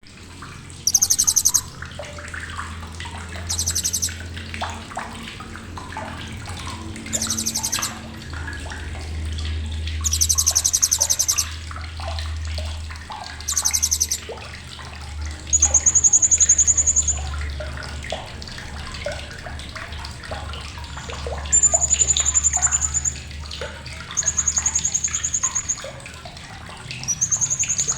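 Blue-crowned hanging parrot (serindit) calling: sharp, very high, rapid chattering bursts of about half a second to a second, a few seconds apart, changing about halfway to higher, clearer trills. Fainter chirping and a steady low hum run underneath.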